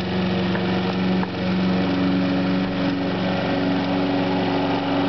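Gas lawn mower engine running steadily under load as the mower is pushed across the grass, with a brief dip in level about a second in.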